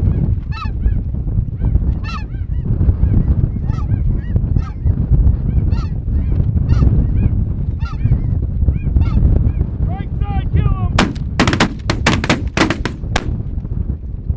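Geese honking repeatedly over wind rumble on the microphone. About eleven seconds in, a rapid volley of shotgun fire, many shots within roughly two seconds, breaks out.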